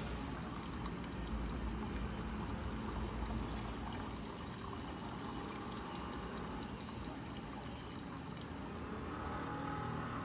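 Water running steadily through a rainwater harvesting filter, flowing in and out of its outlets.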